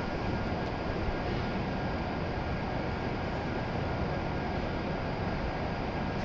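Steady running noise of a stationary E7-series Shinkansen train's onboard equipment, an even hum and whir with two faint steady high whines.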